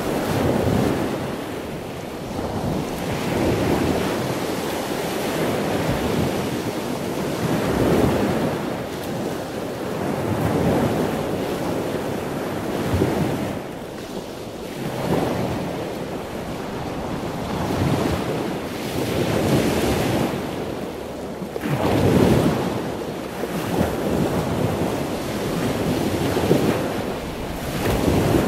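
Ocean surf breaking on a beach, the wash swelling and easing every few seconds, with wind buffeting the microphone.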